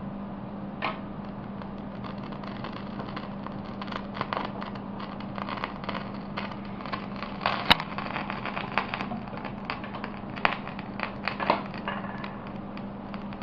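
Flames of a burning wax boat soaked in rubbing alcohol crackling and popping irregularly, with the pops coming thicker after a few seconds and one sharp snap about halfway through, over a steady low hum.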